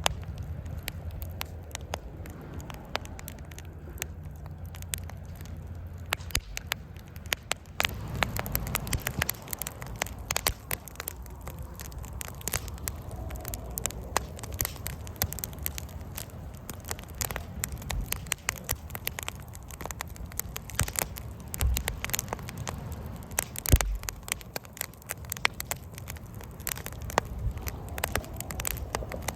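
Wood fire crackling and popping in a Coleman Fire Disc fire pit, with many irregular sharp snaps and one louder pop near the end, over a steady low rumble.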